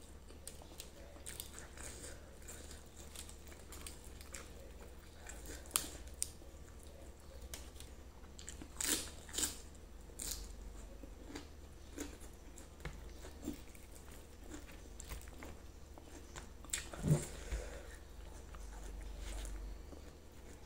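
Close-miked chewing and wet mouth sounds of someone eating grilled chicken and rice with the hands, with scattered smacks and clicks. The loudest come in a short cluster about halfway through and once more near the end.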